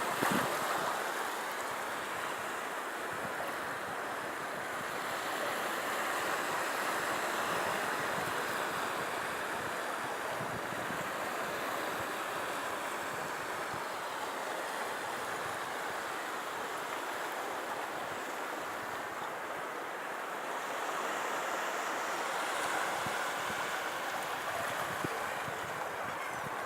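Baltic Sea surf washing onto a beach, a steady wash that swells and eases slowly, with wind.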